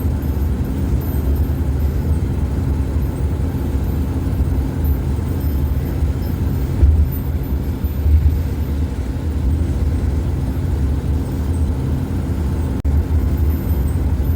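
Steady low engine and road rumble inside a moving van's cabin, with a single brief click near the end.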